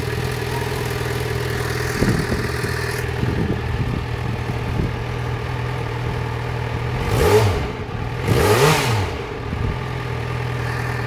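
Yamaha XJ6-N motorcycle's 600 cc inline-four engine idling steadily, given a few small throttle blips, then revved twice in quick succession in the second half, each rev rising in pitch and falling back to idle.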